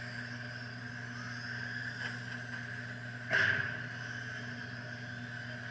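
Electric RC stadium trucks racing, their motors making a steady whine under a constant low hum, with one sharp knock a little over three seconds in.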